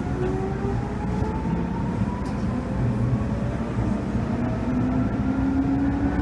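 Seibu 2000 series electric train running under power, heard from inside the front car: a motor whine climbs gradually in pitch as the train gains speed, drops back about two and four seconds in and climbs again, over steady running rumble. This is the train's normal running sound, with no abnormal noise.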